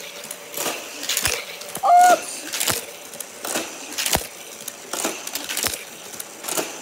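Scattered sharp clicks and knocks of close handling, about one or two a second and unevenly spaced, with a short voiced 'mm' sound about two seconds in.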